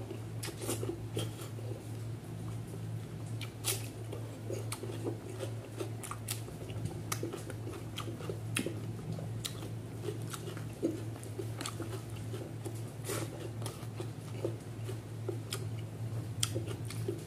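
Eating with the mouth close to the microphone: wet chewing with many short, sharp lip-smacking clicks as rice and catfish curry are eaten by hand, over a steady low hum.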